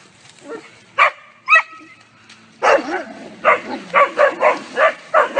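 Dogs barking: one sharp bark about a second in and a short yelp just after, then a fast run of barks, roughly three a second, from about halfway on.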